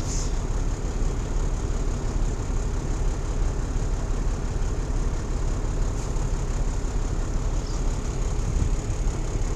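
Peterbilt 379 truck's diesel engine running steadily, a low, even rumble heard from inside the cab.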